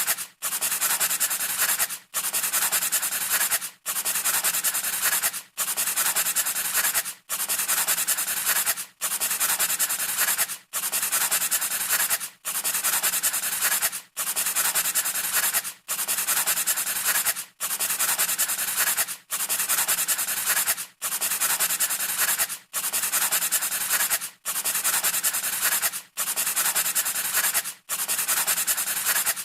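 Scratchy rubbing noise in even strokes of about a second and a half, each broken by a short gap, repeating about every 1.7 seconds like a looped sound effect.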